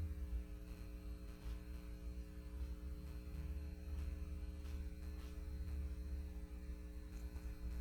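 Steady low electrical mains hum, with a few faint light ticks.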